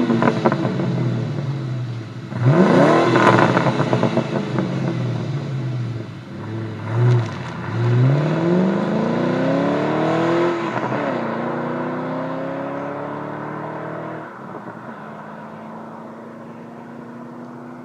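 2001 Ford Mustang Bullitt's 4.6-litre V8 on its stock exhaust: two sharp revs, a short blip, then it pulls away, the pitch climbing, dropping once at a gear change and climbing again. It fades steadily as the car drives off.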